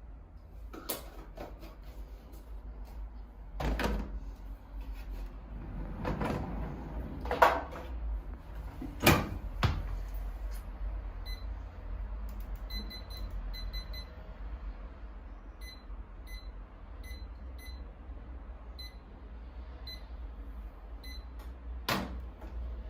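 Household clatter, several sharp knocks and bumps of things being handled and set down, then a run of about fifteen short, high electronic beeps at uneven intervals, like buttons being pressed on an appliance's keypad, and a last knock near the end.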